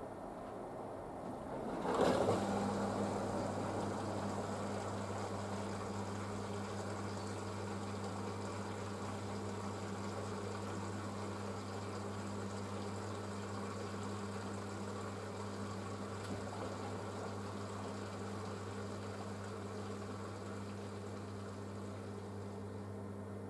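Panasonic washing machine's drain pump switching on about two seconds in with a rush of water, then running with a steady hum as it pumps water out of the drum.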